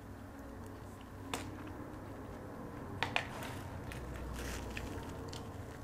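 Faint close-miked eating sounds: chewing on fried turkey sandwiches and curly fries, with a few short sharp clicks about a second and a half in and again around three seconds in.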